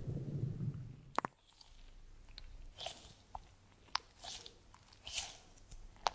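Close-miked soft clicks and short crackles at irregular intervals, with one sharper click about a second in; a low rumbling noise fades out during the first second.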